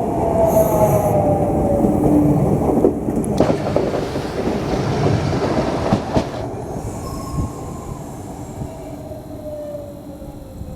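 Minuetto multiple unit moving on the station track, its wheels running on the rails and its traction whine falling in pitch as it slows. A hiss lasting about three seconds comes through the middle.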